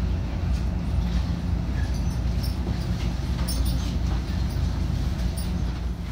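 JR West 227 series 1000 electric train heard from inside, rolling slowly along the platform as it pulls into the station: a steady low rumble with a few faint clicks.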